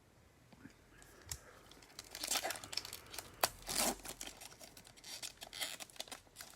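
A trading card pack wrapper crinkling and tearing open, in irregular scrapes and crackles, the loudest about three and a half seconds in.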